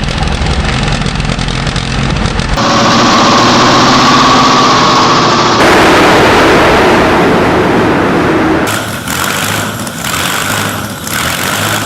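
A quick montage of loud engines running, starting and revving, switching abruptly to a different engine about every three seconds.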